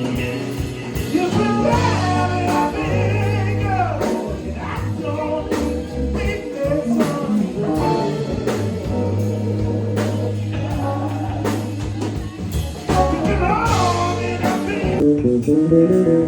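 Band playing blues-rock: electric guitar, bass and drum kit, with singing.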